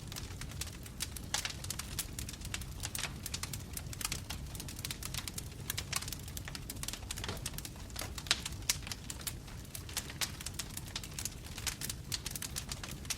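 Wood fire burning in a fireplace, logs crackling with many irregular sharp snaps and pops over a low steady rumble of the flames.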